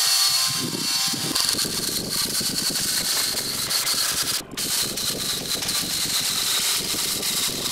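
Handheld electric power tool working along a squared oak beam, its small motor running with a steady high whine over a rough cutting noise. It cuts out briefly about halfway through and starts again.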